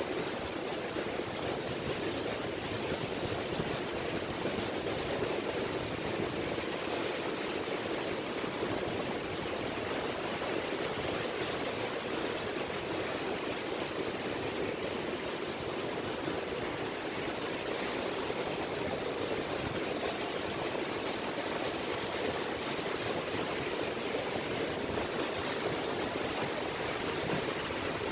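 Small sea waves lapping gently at the shore, a steady wash of water with no distinct breaking surges.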